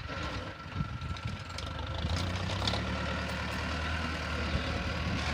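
A heavy diesel engine running steadily, growing louder about two seconds in.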